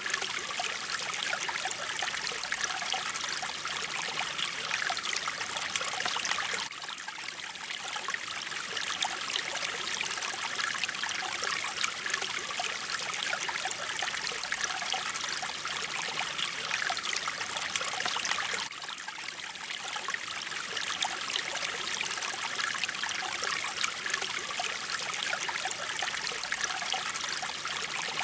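Mountain stream flowing over rocks: a steady, bright rush of running water. It dips briefly twice, about 7 and 19 seconds in.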